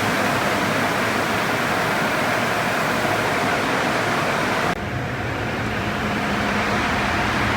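Car wash machinery giving a steady, loud rushing noise, which cuts off abruptly a little before five seconds in, giving way to a lower, steady mechanical hum.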